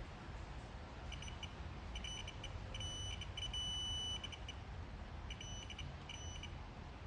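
Digital torque wrench adapter beeping as a bolt is tightened: quick groups of short high beeps, then a held tone of under a second when the set torque is reached, then more short beeps.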